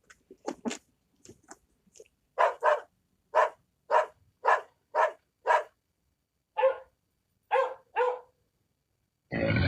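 Dog barking over and over in short, sharp barks, faint at first and then loud, often in quick pairs about half a second apart. A loud roar cuts in near the end.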